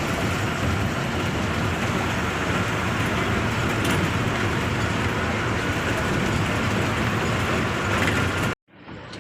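Steady engine and road noise inside a moving bus. It cuts off abruptly about eight and a half seconds in, and a much quieter background follows.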